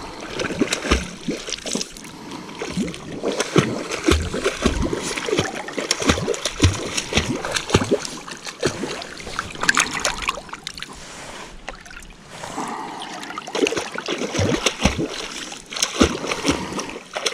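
Water splashing and sloshing in short, irregular bursts as a freshly caught brook trout is rinsed and cleaned out by hand in the shallows.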